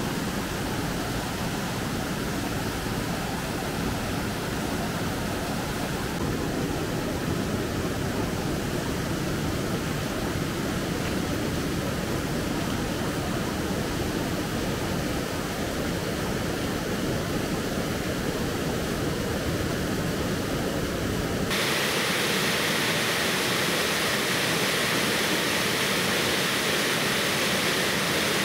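Steady rush of flowing water, like a stream or waterfall. About three-quarters of the way through, the sound changes suddenly to a brighter, hissier rush with less low rumble.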